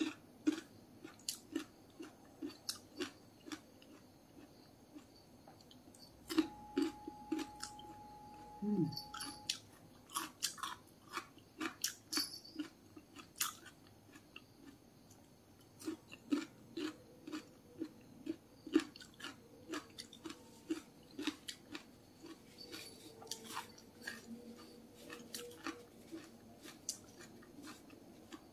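Close-up chewing of crisp raw cucumber slices: crunchy bites at about two to three a second, in runs with short pauses.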